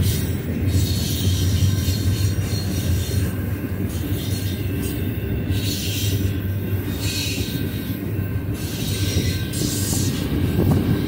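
Double-stack container train rolling past at steady speed: a steady low rumble of steel wheels on rail, with a high hiss that swells and fades every second or two as the cars go by.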